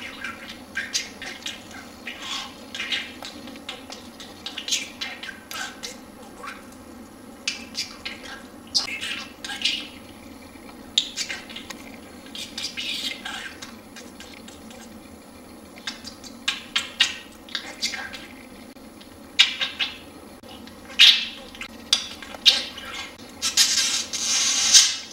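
Male budgerigar chattering and warbling in a string of short scratchy calls, with a louder, harsher stretch near the end.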